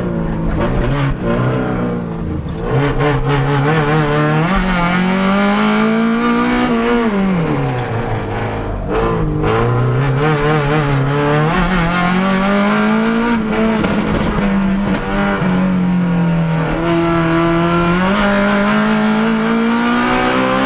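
Proton Satria race car's 4G93 SOHC engine heard onboard, revving up and dropping back several times as it is driven hard, with a sharp drop in pitch about seven seconds in. Its straight-cut gearbox adds a loud gear whine over the engine note.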